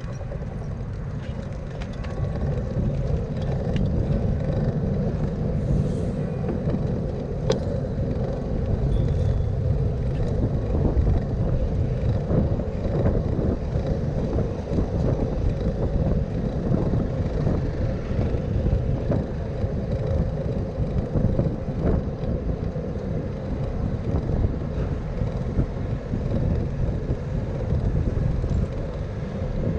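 Steady low rumble and road noise of riding a bicycle through city traffic, with wind on the microphone and a few light clicks.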